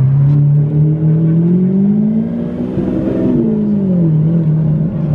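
Lamborghini Aventador SV's V12 engine revving as the car pulls away. Its pitch climbs steadily for about three seconds, then drops back and holds.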